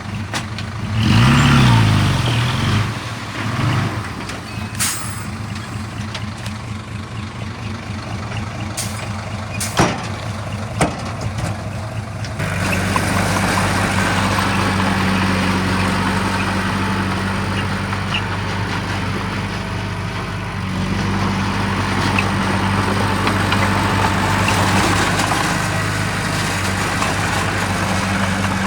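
Heavy diesel earthmoving machinery running. The engine note rises and falls briefly about a second in, a few sharp knocks come around ten seconds in, and the engine runs louder and steadier from about twelve seconds on.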